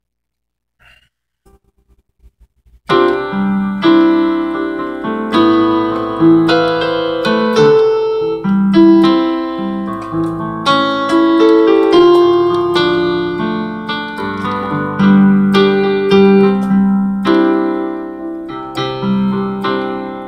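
A few seconds of near silence, then a piano starts an instrumental passage about three seconds in: struck chords and melody notes that ring on and fade between new strikes.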